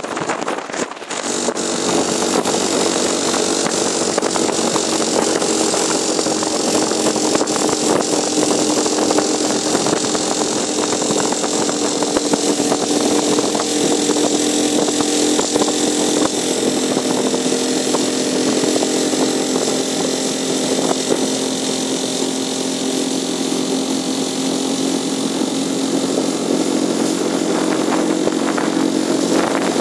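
A 4-horsepower outboard motor running steadily at about three-quarter throttle, driving a small heavily loaded boat over light waves, with a hiss of water spray over the engine note.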